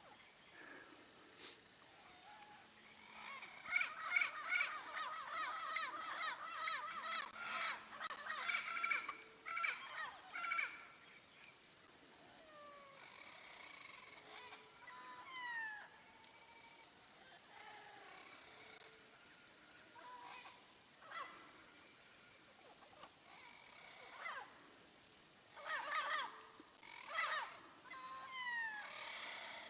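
Turquoise-fronted amazon parrot giving harsh, raspy squawks in two bouts: a long one starting about four seconds in and a shorter one near the end. Under it runs a high, evenly pulsing note, with a few thin falling whistles from other birds between the bouts.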